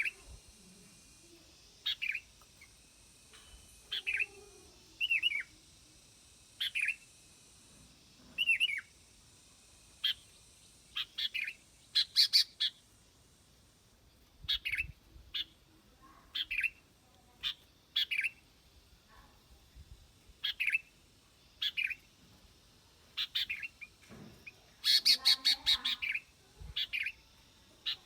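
Bulbul calling: short, bright chirping phrases repeated every second or two, with a quicker, louder flurry of notes near the end.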